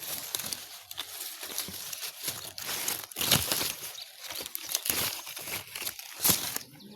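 Guava tree leaves and twigs rustling and crackling as guavas are plucked by hand, in an irregular run of crinkles and snaps, loudest about three seconds in and again near the end.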